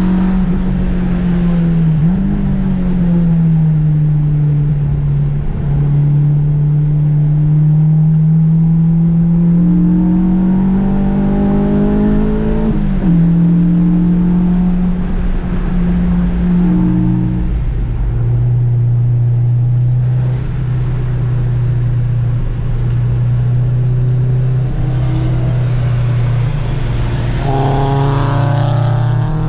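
Honda Civic engine running hard at a race track, its revs rising and falling with gear changes and lifts. For much of the second half it holds a lower, steady note, then the revs climb quickly near the end.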